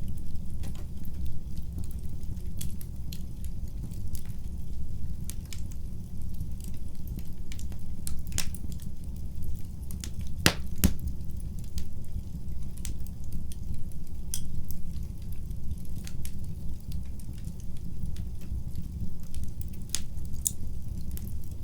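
Wood fire burning in a fireplace: a steady low rumble of flames with irregular sharp crackles and pops, two of the loudest pops coming close together about ten seconds in.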